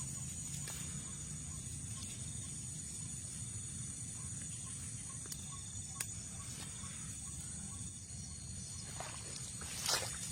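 Steady high-pitched chirring of an insect chorus over a low rumble, with a faint run of short, evenly spaced notes in the middle and a few rustling steps near the end.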